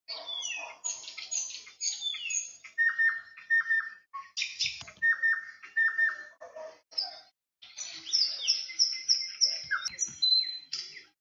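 Birdsong: quick chirps, high whistled notes and falling whistles in phrases, with short pauses between them.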